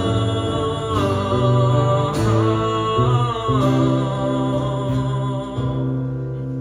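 Acoustic guitar and singing voice closing a song: a long sung note with vibrato over the guitar, then a final guitar chord left ringing and fading out near the end.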